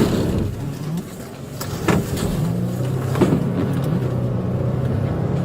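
Car engine running steadily in a police pursuit, with two brief knocks about two and three seconds in.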